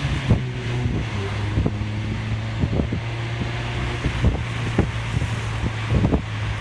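Mazda ND Roadster's 1.5-litre four-cylinder through a Suruga Speed PFS loop-sound exhaust, running at a steady, even pitch at cruise, heard with the soft top open under rushing wind. Irregular low thumps come through now and then.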